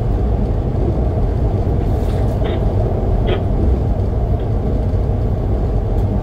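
A diesel-hauled passenger train running along the track: a steady, loud, low rumble, with a few brief higher-pitched sounds about two to three and a half seconds in.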